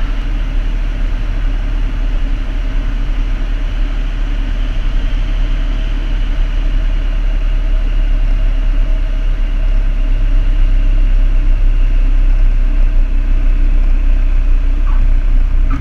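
Piper Cherokee's piston engine throttled back to idle with airflow noise, heard inside the cockpit as a steady drone during a power-off glide to landing; it gets slightly louder about halfway through.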